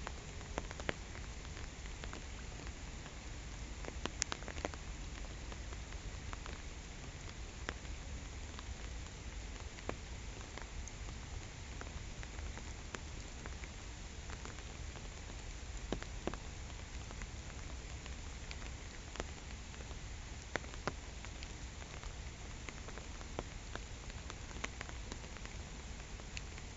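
Steady rain falling on a pond, an even hiss with scattered sharp ticks of single drops at irregular intervals.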